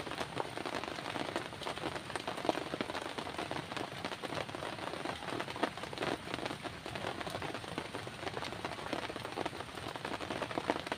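Steady rainfall: a dense spatter of many small drops hitting.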